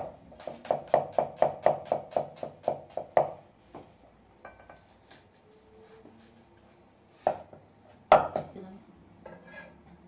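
Kitchen knife chopping quickly on a wooden cutting board, about four strokes a second for some three seconds, then stopping. Two single louder knocks on the board come near the end.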